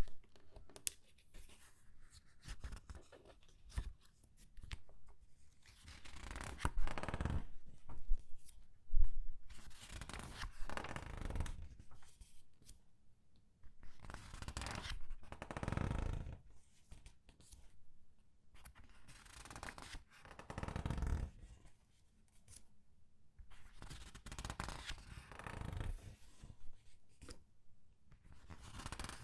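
Comic book pages being turned slowly and squeezed in the hand. The paper rustles and crinkles in uneven swells every second or two, with sharp crackles now and then.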